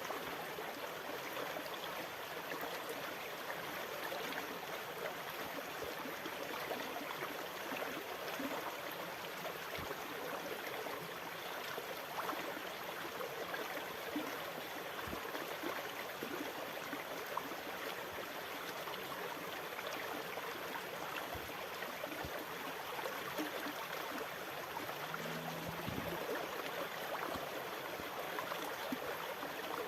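Water rushing and gurgling steadily, with no rise and fall of breaking waves, and a few faint low knocks.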